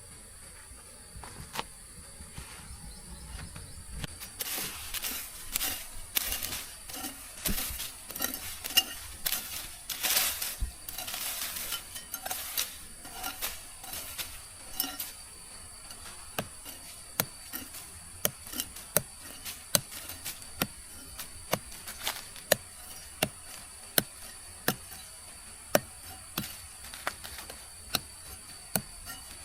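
Insects trilling steadily, with a spell of clattering and rustling in the first half, then a run of regular sharp knocks, about one and a half a second, for the rest.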